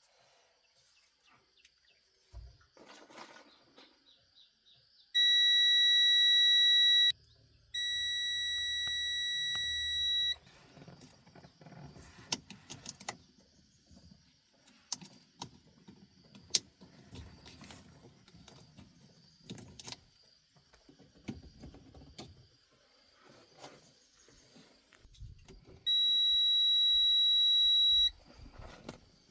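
Steady electronic buzzer tone sounding three times for about two seconds each: loud, then a quieter one right after, then loud again near the end. Light clicks and knocks come in between.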